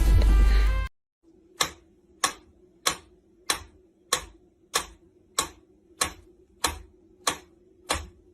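Music cuts off about a second in, followed by a steady, even ticking, about three ticks every two seconds, over a faint low hum.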